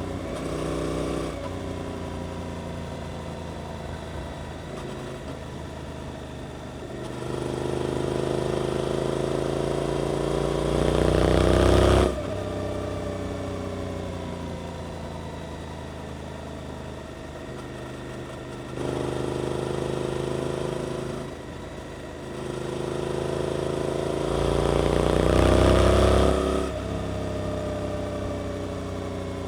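Suzuki GSX-8S parallel-twin motorcycle engine through an Arrows Performance exhaust, under way on the road. It accelerates hard twice, rising in pitch and getting louder until the throttle snaps shut about twelve seconds in and again near the end. In between, the revs fall away as it slows.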